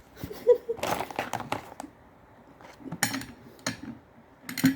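Light knocks and clinks of small hard objects being handled, with rustling, in clusters about a second in, around three seconds, and just before the end.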